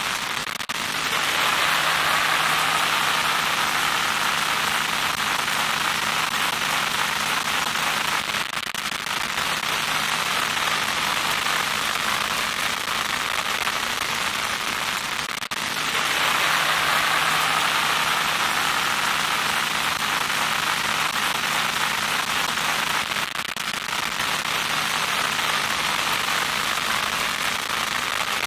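Loud static noise: a steady hiss that grows brighter and louder about a second in and again about halfway through, as the pattern repeats, with a faint low hum underneath.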